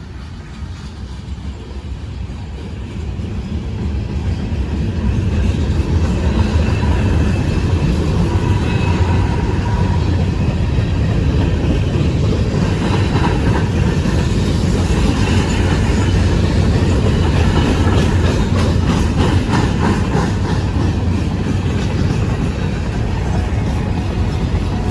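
Train passing close by: a low rumble that grows louder over the first few seconds and then holds, with the wheels clattering over rail joints through the middle of the pass.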